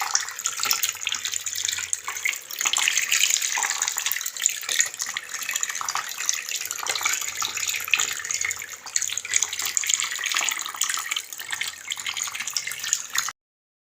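Water rushing and splashing continuously with an irregular crackle, cutting off abruptly near the end.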